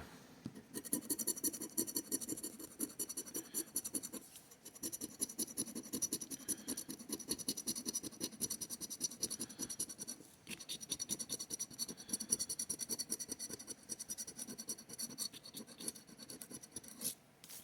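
A coin or scraper scratching the latex coating off a paper lottery scratch-off ticket: quick rapid strokes in bouts, with a few short pauses between.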